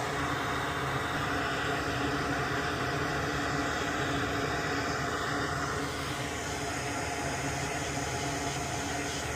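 Steady whir and hiss of a running fan or blower, with several steady hum tones under it and no change in level.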